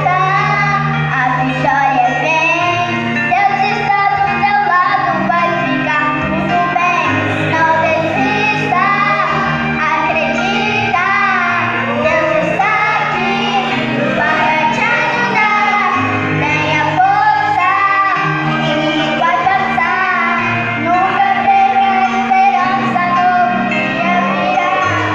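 A solo voice singing a song over an accompaniment of sustained low notes that change every couple of seconds.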